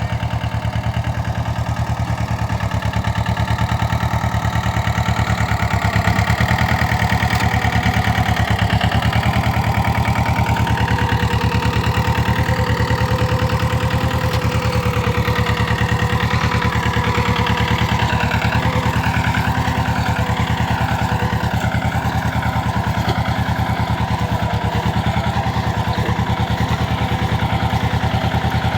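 Mahindra Jivo 225 DI tractor's two-cylinder diesel engine running steadily at an even speed, a fast, continuous chugging.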